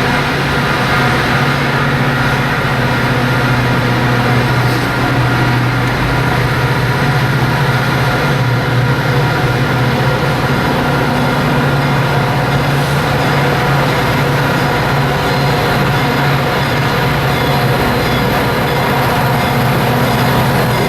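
Metra diesel passenger locomotive running steadily close by, a constant low engine drone with steady overtones over rail-yard noise.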